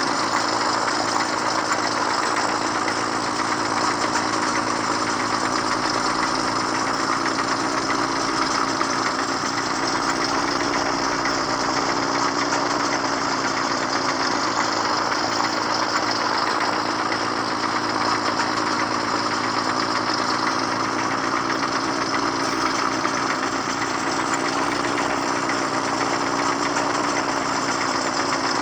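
Excavator's diesel engine running steadily, its pitch wavering slightly.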